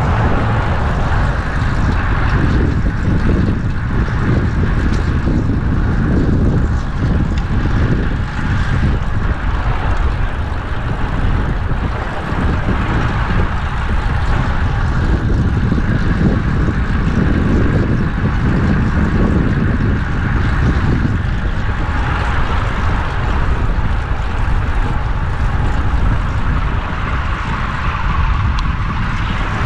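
Steady wind rushing over a GoPro's microphone as a fixed-gear bicycle is ridden at speed, with road and traffic noise underneath.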